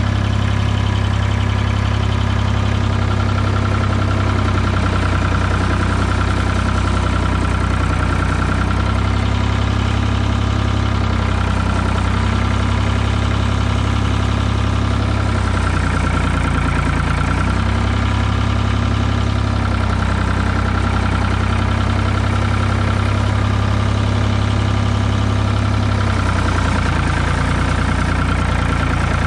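Ford 2000 tractor's diesel engine idling just after a cold start, running steadily with a couple of slight dips in speed around the middle and near the end.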